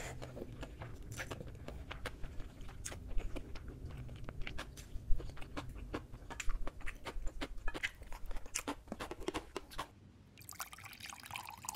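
Close-miked chewing and mouth sounds of eating grilled pork ribs and cold noodles: irregular wet clicks and crunches. Near the end, soju is poured from a glass bottle into a shot glass with a short steady splashing trickle.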